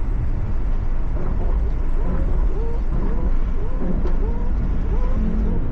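Car driving with a window open: loud, steady low wind buffeting and road rumble. Faint short pitched sounds recur about twice a second over the rumble.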